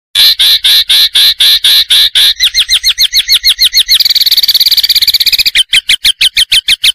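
Recorded bird call played as masteran tutor song for training a white-rumped shama. It starts as sharp high notes about five a second, quickens into a fast trill about two and a half seconds in, becomes a rapid buzzing rattle about four seconds in, and then returns to quick repeated notes.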